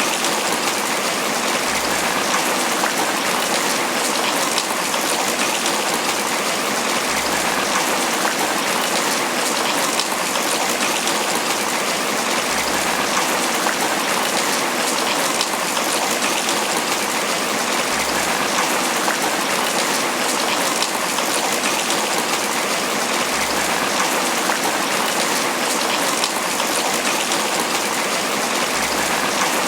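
Tropical rain falling steadily on banana leaves, an even patter of drops with no let-up.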